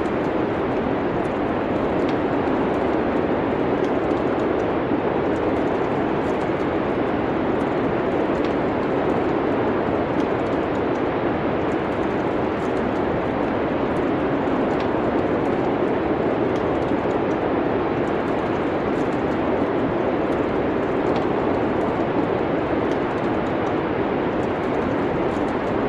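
Steady, even rush of winter storm wind, with faint, scattered crackles and pops of a wood fire in a fireplace.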